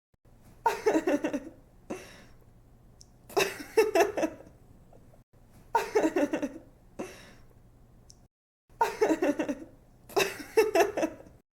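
A young woman laughing in several short bursts of quick "ha-ha" pulses, with quieter breathy stretches between the bursts.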